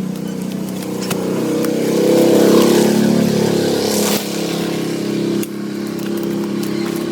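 An engine running steadily with a constant pitch. It gets louder for a couple of seconds, then drops back in two sudden steps.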